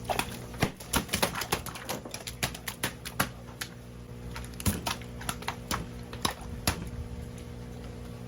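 Irregular sharp knocks and taps of a heavy makkal knife on a cutting board while a large flounder is filleted, over a steady low hum.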